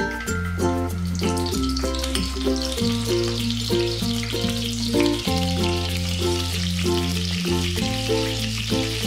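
Pointed gourds sizzling as they fry in hot mustard oil, the sizzle building about a second in as more pieces go into the pan. A melodic background music track with a steady bass plays under it.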